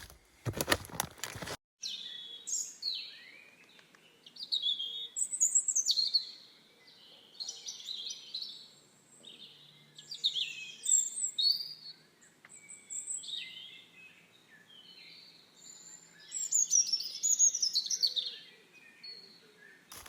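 Songbirds singing and calling in varied chirping, warbling phrases. This follows about a second and a half of footsteps that end at a sudden cut.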